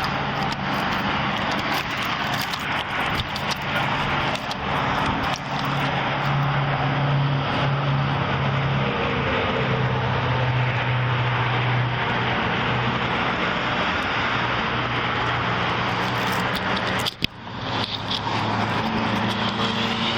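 Steady motor-vehicle and road noise with a low engine drone, dipping briefly about three seconds before the end.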